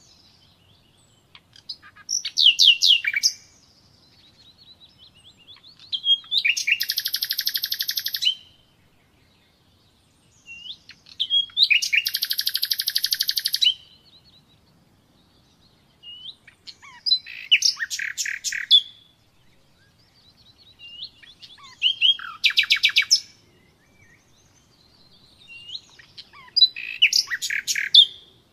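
Common nightingale singing: six separate song phrases a few seconds apart, each a mix of rapid repeated notes and slurred whistles.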